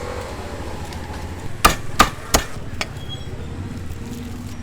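Four sharp knocks, the first three loud and about a third of a second apart, the fourth lighter, over a low steady background rumble.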